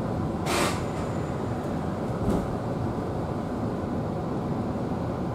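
Running noise heard inside a Minobu Line electric train: a steady rumble of wheels on rail, with a short sharp burst about half a second in and a smaller knock a little after two seconds.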